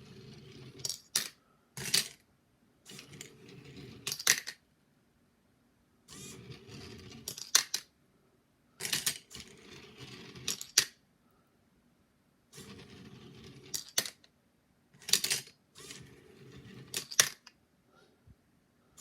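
Arduino-controlled Skittles colour sorter cycling: short spells of motor hum from its stepper-driven plate and servo chute, each followed by sharp clicks as candies drop through. The cycle repeats about every three seconds, with short silences in between.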